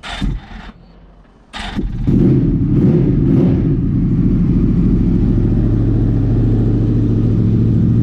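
Motorcycle engine that comes in abruptly about two seconds in and then runs steadily, after two short bursts of noise at the start.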